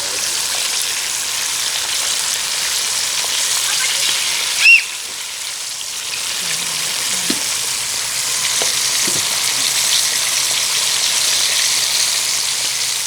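Food frying in hot oil, a steady sizzle. A brief sharp squeak comes about a third of the way in.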